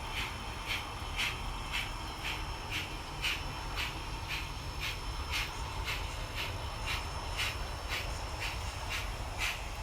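Model 2-8-0 steam locomotive's sound decoder playing a steady, even beat about twice a second over a low hum.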